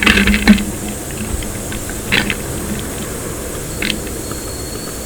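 Close-miked eating sounds: a cluster of short crunchy bites and mouth clicks at the start, then single ones about two and four seconds in, over a steady hiss.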